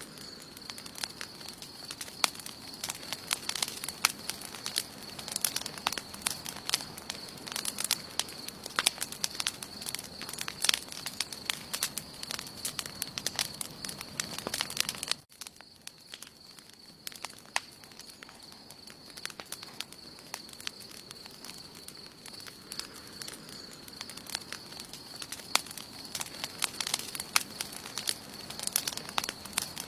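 Wood campfire crackling, with many sharp snaps and pops. About halfway through the sound drops abruptly, then the crackling builds back up. A steady high-pitched tone runs underneath.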